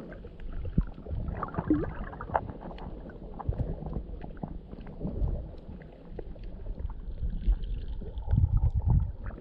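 Muffled water noise from a camera held in the sea: an uneven low rumble and sloshing with scattered small clicks.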